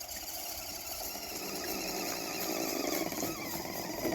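Redcat Everest 10 RC crawler's electric motor and gearbox whining as it drives, getting louder about halfway through.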